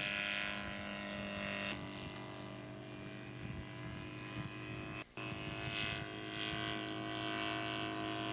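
Engine of a 1/3-scale radio-controlled Nieuport 17 model plane running steadily in flight, its note shifting about two seconds in. The sound cuts out for a split second about five seconds in.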